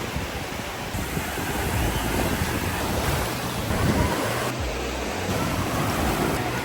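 Ocean surf washing steadily onto the beach, with wind buffeting the microphone in a low, uneven rumble.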